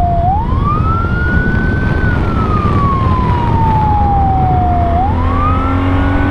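Police motorcycle siren in wail mode. The tone climbs quickly, then sinks slowly over about three seconds, and a second climb starts about five seconds in. A steady low rumble runs underneath.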